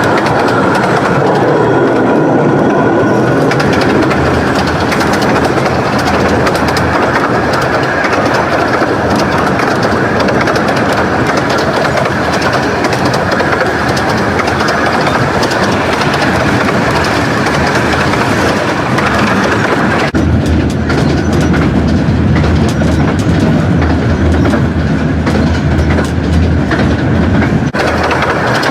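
A 15-inch gauge Romney, Hythe and Dymchurch Railway train running on the track, its wheels clattering steadily over the rails. A heavier low rumble comes in about twenty seconds in and drops away again near the end.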